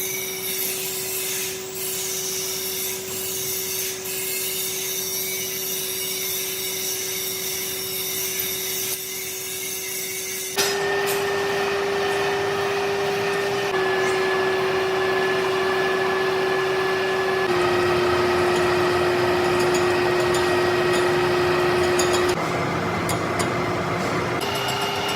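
Metalworking machine running with a steady hum over a constant noisy cutting sound. About ten seconds in it abruptly gets louder and slightly higher, and the pitch shifts again several times after that.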